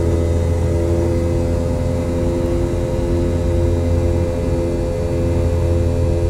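Boeing 717's rear-mounted Rolls-Royce BR715 turbofans heard from inside the cabin: a steady, loud drone with a deep rumble and a few held tones above it.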